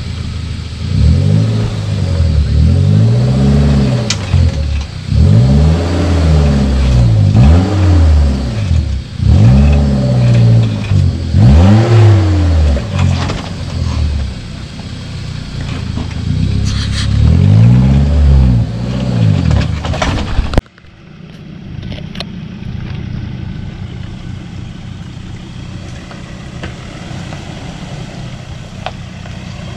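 Suzuki Jimny's engine revving up and down over and over as it crawls over rock steps, each rev rising and falling within about a second. About two-thirds of the way through it cuts to a quieter, steady engine running at low revs: a pickup truck coming up the lane.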